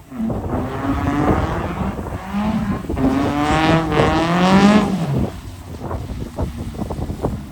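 Drift car's engine revving hard, its pitch climbing and dropping several times, with tyre noise at the loudest point about four seconds in. It falls away to a low rumble after about five seconds.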